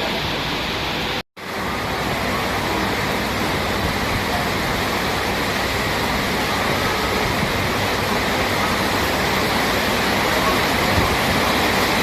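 Steady rushing noise, broken by a sudden brief cut to silence about a second in.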